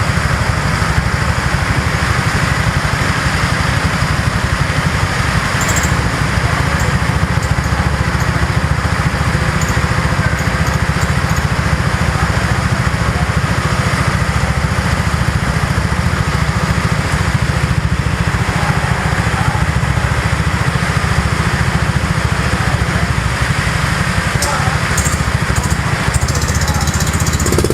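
Vehicle engine running steadily while under way, with a heavy, continuous low rumble.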